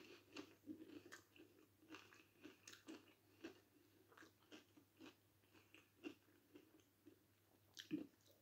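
Faint, close-up chewing of a mouthful of breadcrumb-coated cod fishcake: soft, irregular crunches and mouth clicks. A couple of louder crunches come near the end.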